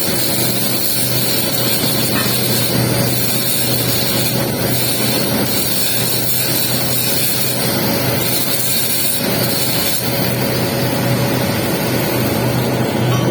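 Arc welding on pipe during the capping pass: a steady hiss and crackle of the arc over a constant low hum, without a break.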